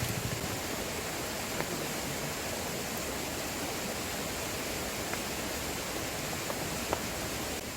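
Fire burning inside a Swedish torch log, a steady rushing sound with a few faint crackles.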